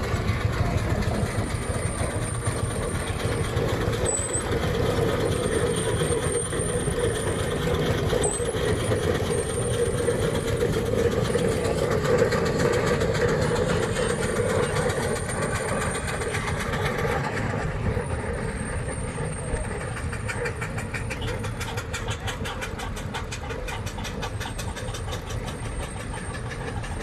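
Vintage tractor engines running as they drive past, building to their loudest about halfway through and easing off near the end.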